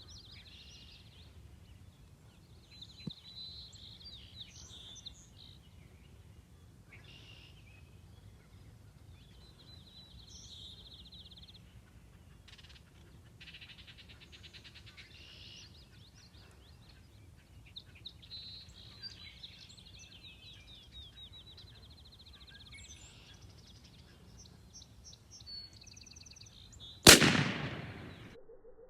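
Songbirds singing and trilling, then near the end a single loud shotgun blast that dies away over about a second.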